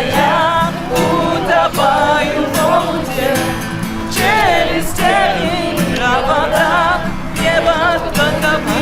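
A singer performing a song with instrumental accompaniment, the voice wavering in vibrato on held notes.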